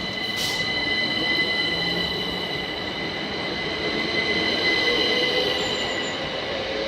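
Southeastern Class 377 Electrostar electric train running past, with a steady high-pitched squeal of several tones over its running noise. A short hiss sounds about half a second in.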